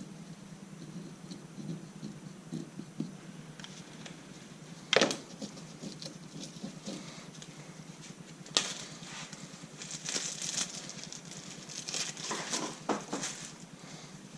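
Metal tools and engine parts being handled, with two sharp metallic knocks and a stretch of light rattling and scraping clatter between them and near the end, as the camshaft retainer plate is worked on during an LS V8 teardown.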